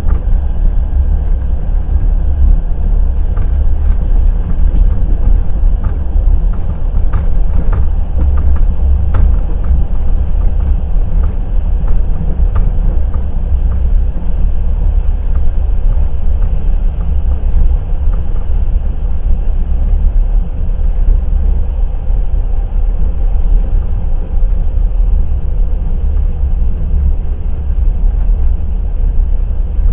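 Passenger train running along the track: a steady low rumble of the wheels on the rails, with scattered sharp clicks of the wheels over the rails.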